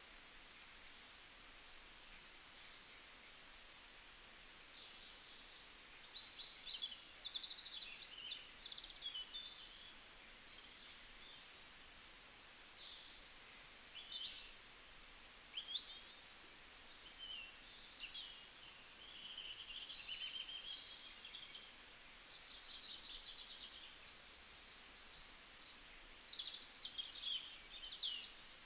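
Faint birdsong: several small birds chirping and trilling on and off over a soft steady hiss, like a nature-ambience recording.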